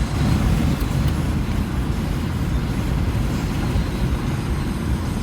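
A car in motion, heard from inside the cabin: a steady, low rumble of engine and road noise.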